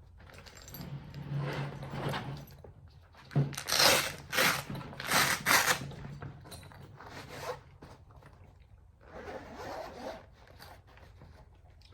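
A zipper on a tool pouch or case being pulled several times in quick rasping strokes, loudest a few seconds in, with softer pulls near the end.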